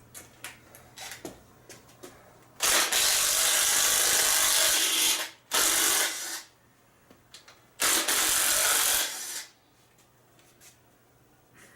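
A power tool run in three bursts, the first about two and a half seconds long and the other two shorter, with small clicks and knocks of hand work between them.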